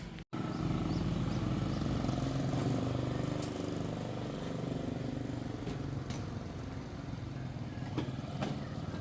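Motorbike engine running steadily. The sound starts abruptly just after a brief dropout, and a few sharp clicks come near the end.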